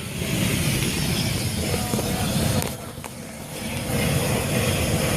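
Steady rushing noise of a burning truck loaded with gas bottles, with a brief dip about three seconds in.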